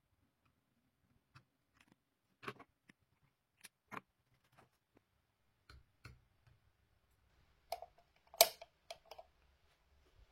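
A scattered series of light clicks and taps, irregularly spaced, with a louder knock and a few quick clicks about eight and a half seconds in.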